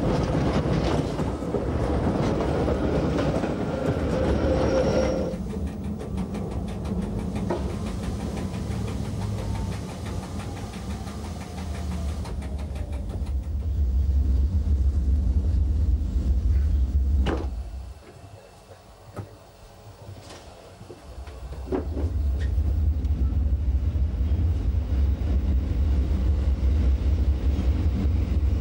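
Metre-gauge electric train rushing past close by, then running along the track with a steady low rumble, broken by a couple of sharp clicks and a brief quieter spell a little past halfway.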